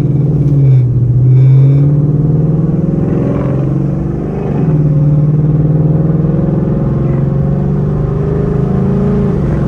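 Ford Mustang GT's V8 engine and exhaust heard from inside the car with the window cracked open, pulling up in pitch over the first couple of seconds, easing off briefly near the middle, then cruising steadily. Wind rushes through the gap, making a low rumble under the engine.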